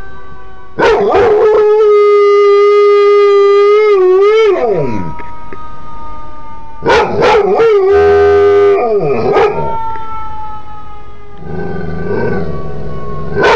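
Dog howling in imitation of an ambulance siren: two long, held howls that waver and then slide down in pitch at their ends, with short yelps before each.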